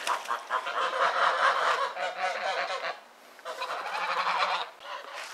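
Flock of geese honking and cackling in a fast, chattering run, pausing briefly about three seconds in before starting again.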